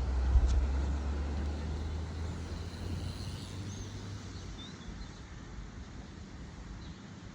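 A vehicle's low engine drone, loudest at the start and fading away over the next few seconds as it moves off. A few faint high chirps come through in the middle.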